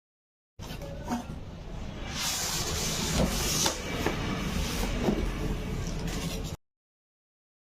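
Rubbing and handling noise with a few light knocks, starting and stopping abruptly; a hissy stretch rises in the middle.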